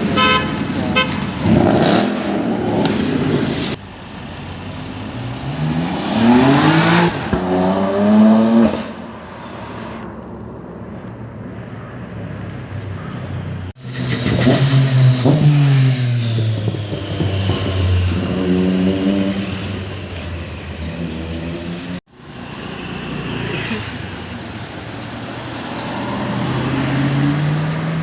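Street traffic with car engines accelerating past in several separate passes, each engine note rising in pitch as it revs up, then dropping. A car horn sounds at the start.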